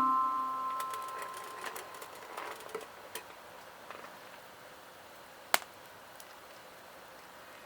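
A mallet-percussion music note fades out, leaving a wood fire in a small campfire stand crackling faintly, with scattered small pops and one sharp pop about five and a half seconds in.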